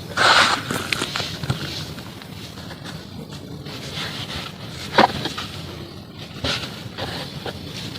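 Pieces of pure cement being crumbled, a gritty crunching with scattered sharp cracks. The loudest break comes just at the start, with a sharp crack about five seconds in.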